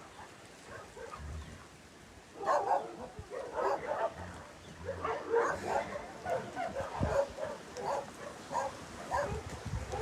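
Dogs barking and yipping in many short calls, starting about two seconds in and going on until near the end.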